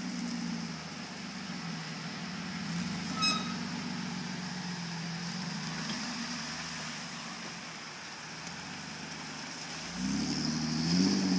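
An engine running steadily with a slowly wandering pitch, getting louder and higher near the end, over a steady high hiss. A single short high beep sounds about three seconds in.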